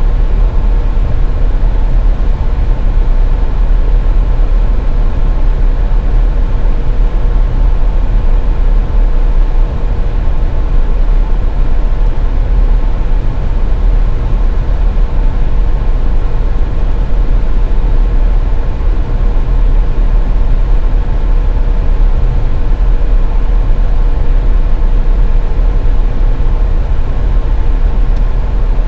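Car driving on a highway: a steady, loud low rumble of road and engine noise with a faint constant hum over it.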